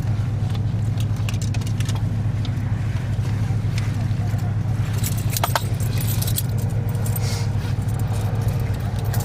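Car engine idling, a steady low hum heard from inside the cabin, with a short run of light jingling clicks about five to six seconds in.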